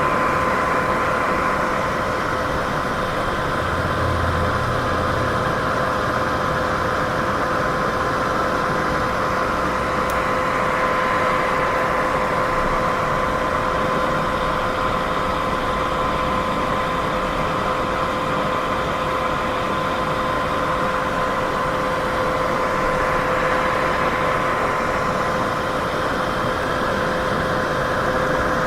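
Continuous white noise, a steady even hiss with no change in level, with a faint steady tone running through it.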